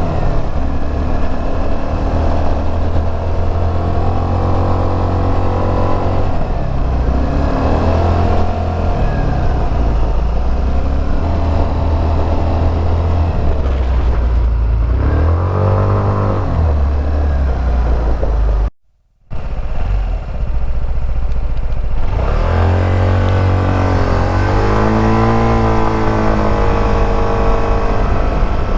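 Suzuki Burgman 200 scooter's single-cylinder engine and exhaust while riding, the pitch rising and falling again and again as the scooter speeds up and slows. The sound cuts out completely for about half a second roughly two-thirds of the way through.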